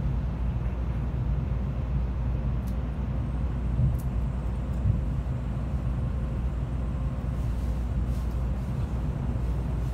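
Cabin noise inside an N700A Shinkansen passenger car under way: a steady low rumble from the train running along the track, with two brief knocks about four and five seconds in.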